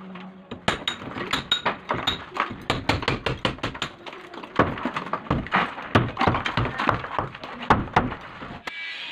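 Rapid hammer blows on a masonry wall, about three or four a second with a few short pauses, stopping shortly before the end. This is the wall being broken open to make room for a shower valve.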